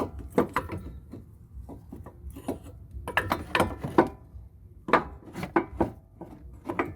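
Metal brake parts and tools clinking and knocking in several short clusters as the front brake caliper is handled and hung out of the way.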